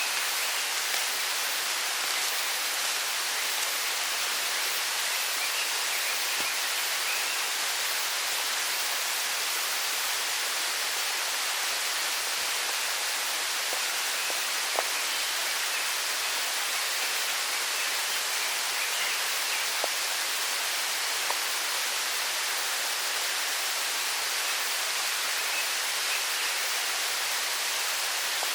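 Steady rushing of a mountain stream, even and unbroken, with a few faint clicks.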